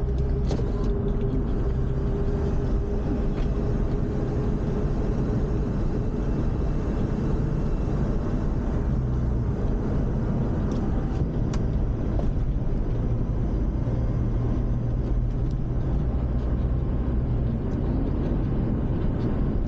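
Steady engine hum and tyre rumble heard from inside a moving car's cabin, with a few faint clicks.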